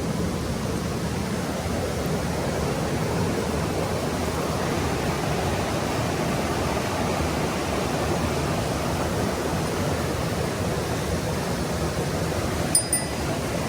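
Mountain stream water rushing steadily over rocks. A short sharp click near the end.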